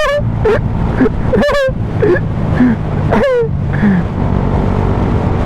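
Suzuki GSX-S 125's single-cylinder four-stroke engine running steadily through a Mivv GP Pro exhaust. Several short pitched sounds slide up and down over it in the first four seconds.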